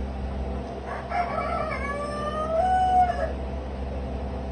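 A rooster crowing once, starting about a second in and lasting about two seconds, ending on a long held note, over a steady low hum.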